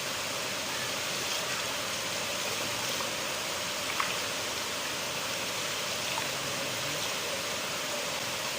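River water flowing, a steady even rush, with one faint tick about four seconds in.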